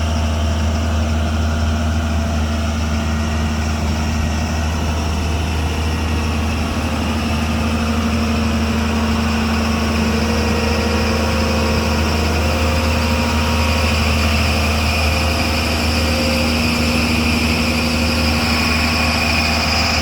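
Hyundai Robex 215 L excavator's diesel engine running steadily, getting slightly louder about halfway through.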